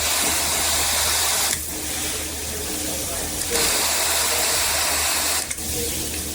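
Water spraying from a handheld filtered shower head, a steady hiss that is loud at the start, drops after about a second and a half, comes back loud in the middle and drops again near the end.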